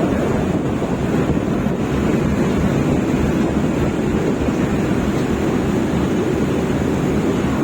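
Wind buffeting the microphone in a steady low rumble over the sound of the sea.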